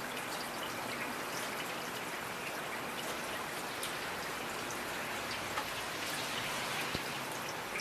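Steady rain, an even hiss with many individual drops ticking on a surface.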